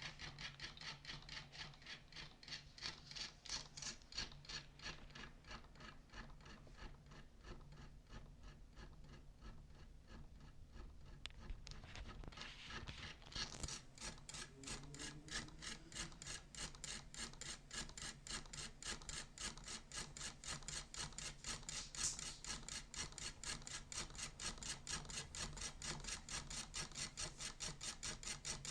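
Home-built model electric motor running, its rotor turning with an even, rhythmic scraping as the brushes rub on each turn, over a steady low hum. About 13 seconds in, the scraping gets faster and a little louder as the motor picks up speed.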